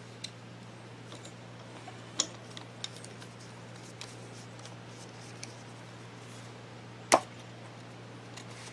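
Scattered light clicks and clinks of small metal motor parts being handled on a workbench, with one sharper knock about seven seconds in, over a steady low hum.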